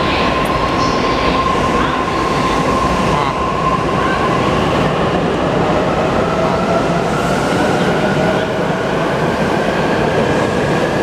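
E259 series Narita Express electric train pulling out, with wheels rumbling on the rails and a motor whine. The whine holds steady at first, then rises slowly in pitch from about halfway through as the train picks up speed.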